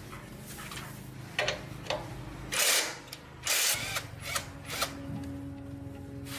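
Workshop tool noise: a steady low hum with several short bursts of harsh, hissing scraping, the two loudest about two and a half and three and a half seconds in.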